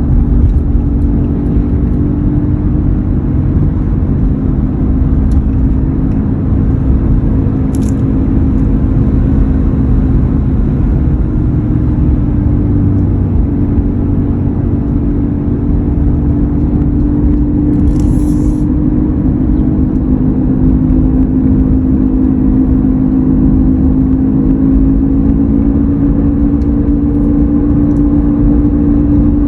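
2003 Ford F-150 running with a steady hum over its low road and engine rumble; the hum's pitch creeps slightly upward near the end. The cause of the hum is undiagnosed and could be any of several things.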